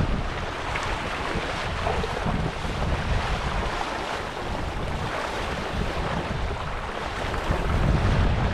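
Wind buffeting the microphone in gusts over a steady rush of water, with no distinct knocks or splashes standing out.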